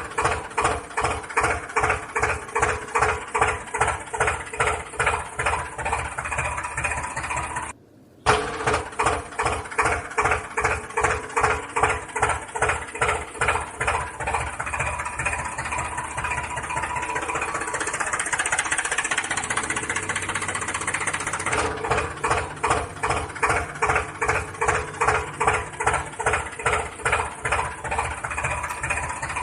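Tractor-style engine running with a slow, even chug of about two beats a second. The sound cuts out briefly about eight seconds in, and the beat blurs into a steadier drone for a few seconds after the middle.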